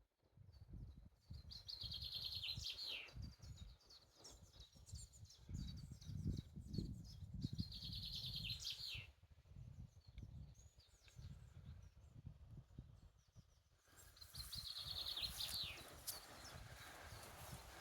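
A songbird repeating the same fast trilled phrase three times, each ending in a falling flourish, with other birds chirping faintly. A fluctuating low rumble runs underneath.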